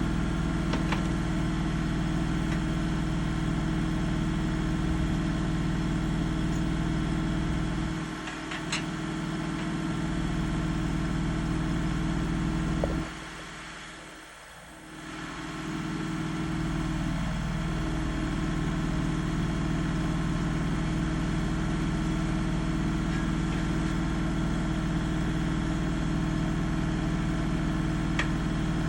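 An engine running steadily, with a short dip about eight seconds in and a deeper drop of a few seconds near the middle before it picks back up.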